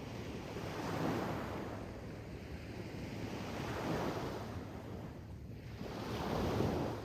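Sea waves washing in, the surf swelling and falling back three times, about every two and a half to three seconds.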